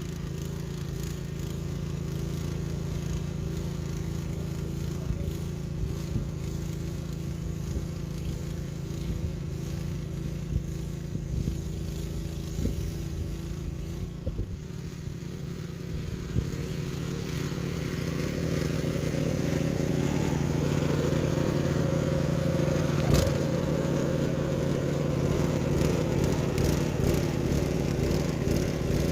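An engine running steadily, growing louder from a little past the middle, with a few scattered scrapes and knocks.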